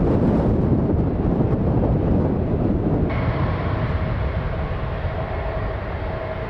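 A broad, heavy rumble with wind on the microphone, then an abrupt cut about three seconds in to a Boeing 737 MAX 8's jet engines running with a steady whine over a low rumble as it departs.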